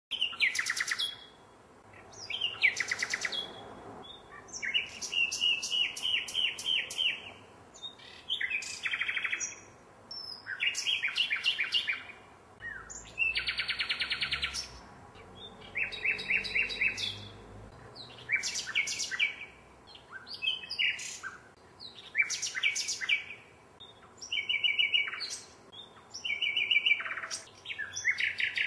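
Common nightingale singing: phrase after phrase of rapid repeated notes and trills, each about one to two seconds long, separated by short pauses.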